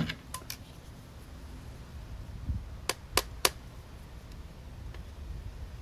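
Sharp clicks and taps of hand tools and small metal parts being handled while a small-engine carburetor is taken apart: a few clicks at the start and three quick clicks about halfway through, over low handling noise.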